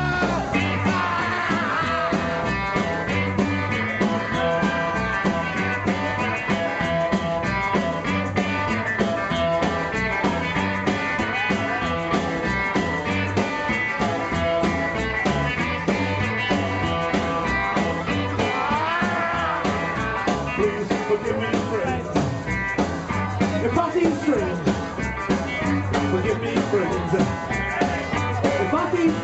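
Rock and roll band playing live with a steady driving beat.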